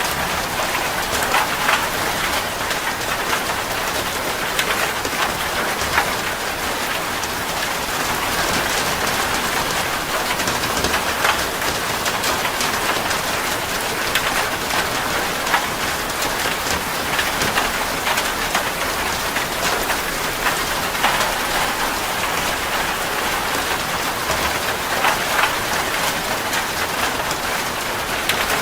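Heavy rain drumming steadily on a metal roof, a dense hiss with many distinct drop impacts ticking through it.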